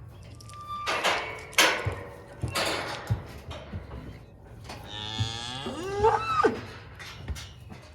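Cattle bawling in the pens: a few short, harsh calls in the first three seconds, then one long moo about five seconds in that rises and falls in pitch and is the loudest sound.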